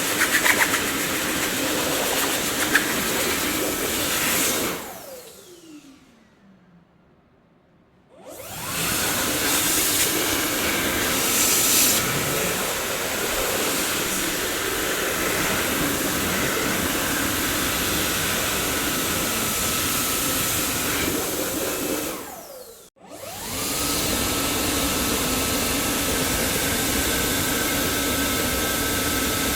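Dyson vacuum cleaner running steadily. About five seconds in it is switched off, its motor whining down in pitch to near silence for a couple of seconds, then switched back on and spinning up with a rising whine. Later it briefly winds down and cuts out, then spins up again to a steady whine.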